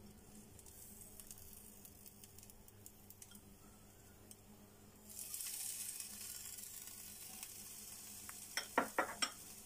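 Rava uttapam batter sizzling in a hot non-stick pan on a gas stove while chopped tomato is sprinkled over it. The sizzle grows louder about five seconds in, and a few sharp clicks come near the end.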